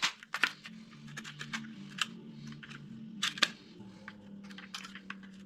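Scattered sharp clicks and light metallic taps of tools and steel parts being handled, a double knock about three seconds in, over a faint steady low hum.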